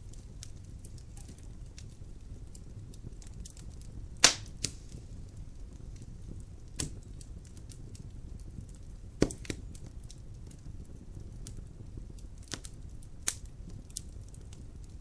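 Wood fire crackling in a fireplace: a scatter of faint crackles and about seven sharp pops, the loudest about four seconds in, over a steady low rumble.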